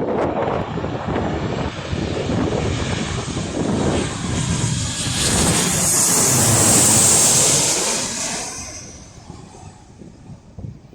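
An airliner passing close overhead: its engine noise builds to a peak about seven seconds in and then fades as it moves away. Wind buffets the microphone throughout.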